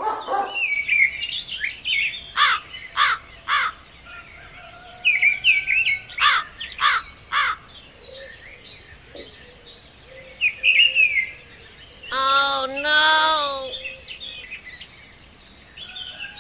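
Songbirds chirping and twittering in quick repeated notes. About twelve seconds in comes a louder, lower, wavering call.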